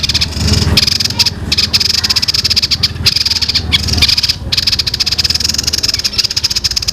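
White-chested babbler (tepus dada putih) singing a fast 'tembakan' burst: a high, rapid rattle of many notes a second, broken by a few brief pauses.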